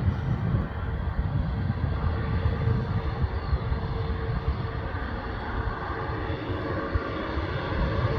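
Airliner engines running steadily, giving a broad rumble with a thin, steady tone through it.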